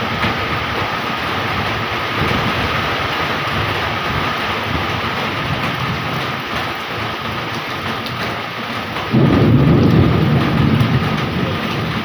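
Heavy rain pouring steadily, with a low rumble of thunder that starts suddenly about nine seconds in.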